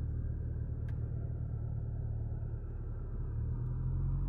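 1967 Ford Mustang's engine running under way with a low, steady drone; its pitch rises about three seconds in as it picks up revs.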